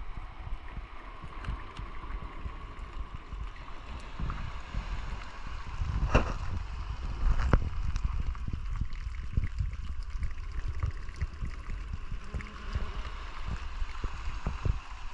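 Water sloshing and splashing with wind rumbling on the microphone and many irregular low knocks; two sharper splashes or bumps stand out about six and seven and a half seconds in.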